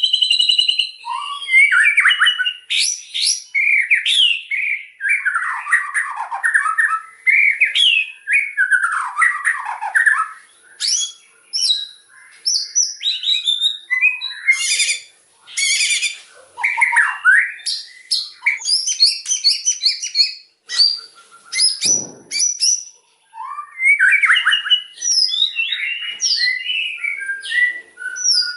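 White-rumped shama singing loudly, a rapid, varied run of whistles, trills and sweeping notes with short pauses between phrases.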